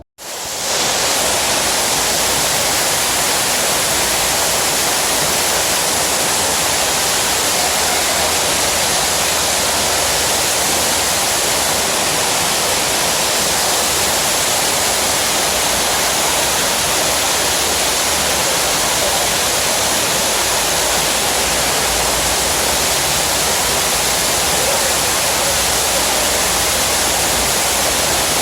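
Steady, loud rush of falling water that sets in abruptly and holds unchanged.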